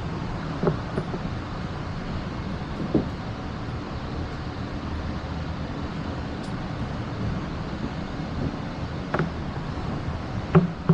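A motor vehicle's engine running steadily, with a few short knocks, one about three seconds in and two more near the end.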